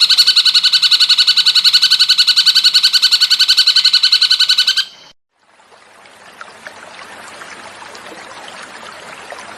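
Cucak cungkok bird call: a rapid, very even trill of ringing pulses that cuts off sharply about five seconds in. After a brief silence, flowing stream water fades in, steady, with small splashes and trickles.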